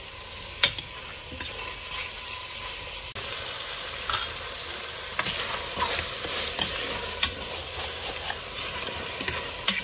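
Chicken, potatoes and vegetables sizzling as they fry in masala in a steel pot, with a metal spoon stirring and scraping against the pot in irregular knocks.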